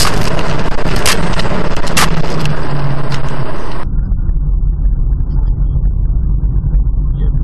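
Car driving noise picked up by a dashcam: loud road and wind hiss with a few sharp clicks. About four seconds in it changes abruptly to a lower, muffled road and engine rumble.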